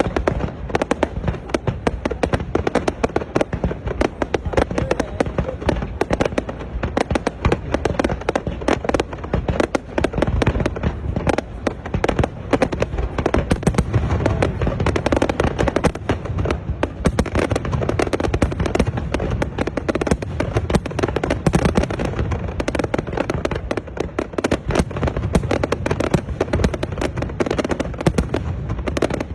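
Fireworks display: a dense, continuous barrage of sharp bangs and crackles over a steady low rumble of shell bursts.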